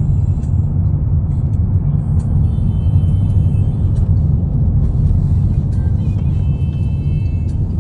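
Steady low rumble of a car on the move, with faint music over it.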